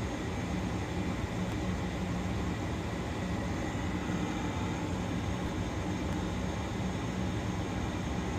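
Trane two-stage propane gas furnace running on high fire: a steady noise of burners and fans with a low hum underneath.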